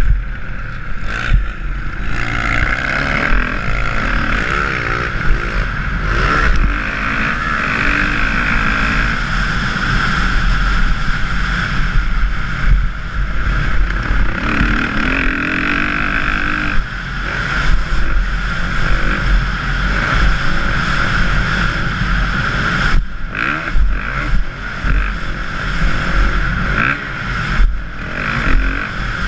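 Dirt bike engine revving up and down through the gears under riding load, with wind rushing over the microphone.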